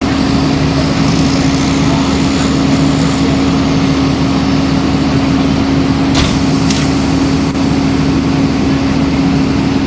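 Engine running steadily with a constant hum, with two short clicks about six seconds in.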